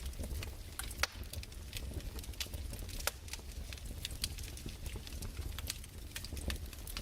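Wood fire crackling in a fireplace: irregular snaps and pops over a low steady rumble, with one sharper pop about a second in.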